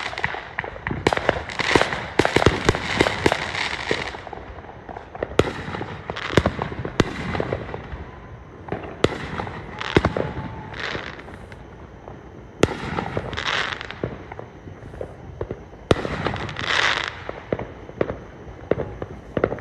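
Fireworks going off: a rapid volley of sharp bangs for the first four seconds, then scattered single bangs, several followed by a brief crackle.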